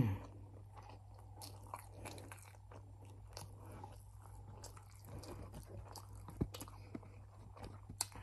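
A person chewing food, with small irregular wet clicks and crunches from the mouth and a couple of sharper clicks late on. A short, louder low sound comes right at the start, and a faint steady low hum runs underneath.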